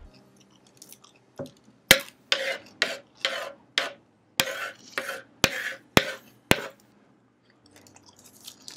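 Crunchy bites and chewing of raw capsicum (bell pepper). About eleven sharp crunches come roughly two a second, starting about a second and a half in, followed by fainter chewing near the end.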